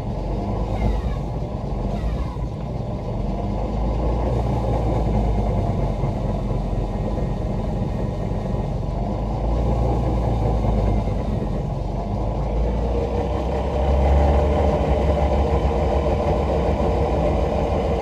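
Three-phase AC motor driving the BMW E46's drivetrain, spinning the wheels through a gearbox running with no oil, with a steady mechanical drone. A few faint falling whines come in the first couple of seconds, and the drone gets louder and deeper about 14 seconds in.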